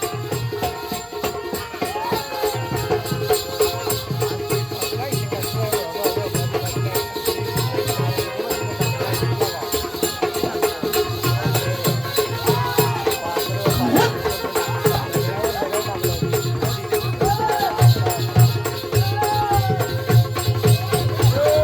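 Konkan jakhadi (balya dance) folk music: a repeating drum beat under continuous jingling cymbals, with a voice singing over it.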